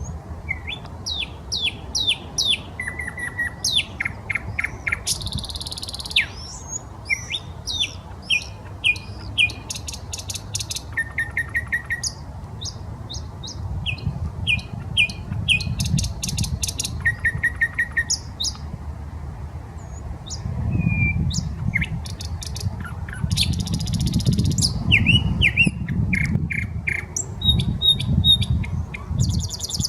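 Nightingale singing in varied phrases: runs of fast repeated clicks and whistled notes, sweeping notes and rattling trills, separated by short pauses. A low rumble lies underneath and grows louder in the second half.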